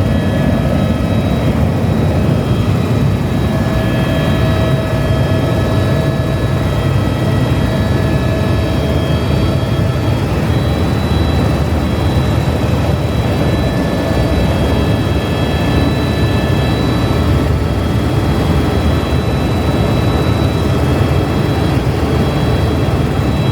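Helicopter's turbine engine and rotor running steadily, a dense low noise with several high whining tones that drift slightly in pitch.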